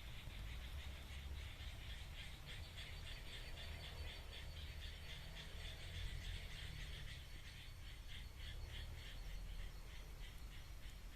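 A continuous chorus of rapidly pulsed, rhythmic animal calls, with a low rumble underneath.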